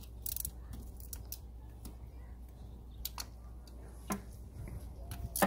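Sharp clicks and taps of a socket wrench and extension against the engine as a loosened spark plug is worked out: a quick run of clicks at the start, then single clicks spaced about a second apart, over a low steady hum.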